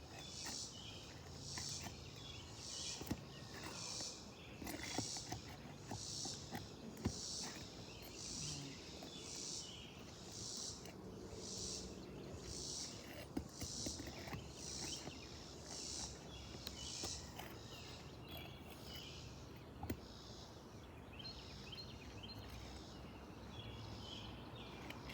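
An insect chirping outdoors in a regular rhythm, about one high-pitched pulse a second, which stops about two-thirds of the way through. Scattered light clicks and knocks sound throughout.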